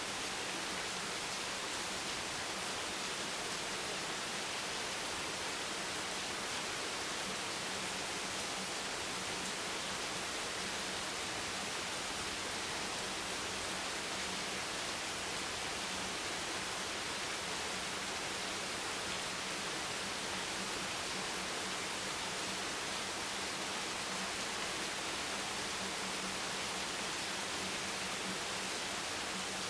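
Steady rain, an even hiss with no single drops or splashes standing out.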